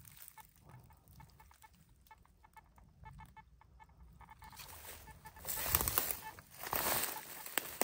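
Faint short bird calls repeating several times a second, clucking like fowl, then louder rustling and crunching from about five and a half seconds in.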